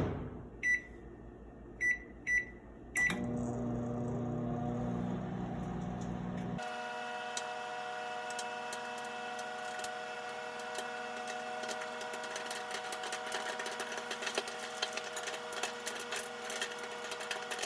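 Microwave oven being set with four short keypad beeps, then starting up and running with a steady hum. About three and a half seconds later the hum changes and scattered small pops and clicks come through it: a bag of microwave popcorn popping.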